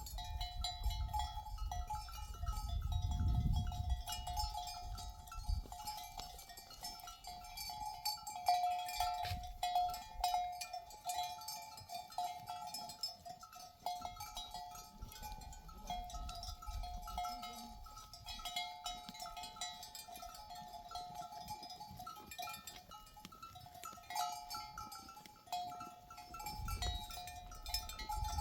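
Bells on a grazing flock of sheep clinking and ringing steadily, with low rumbles now and then, strongest a few seconds in and near the end.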